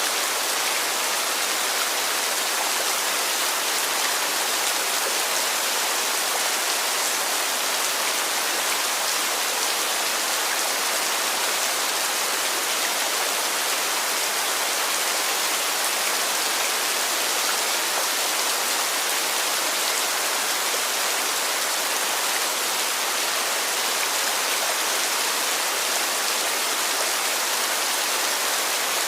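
Heavy rain falling steadily, a dense even hiss with no distinct drops or pauses.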